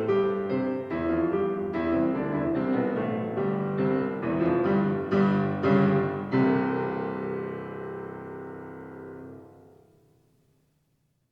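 Piano playing the closing bars of a choral song's accompaniment after the voices stop: a run of notes, then a final chord held and dying away to silence near the end.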